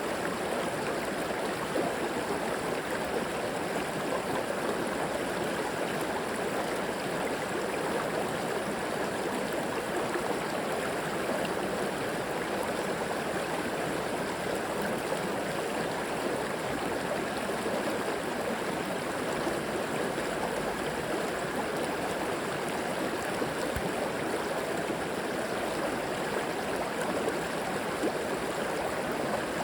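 River water flowing and rushing over stones, a steady, even babble with no breaks.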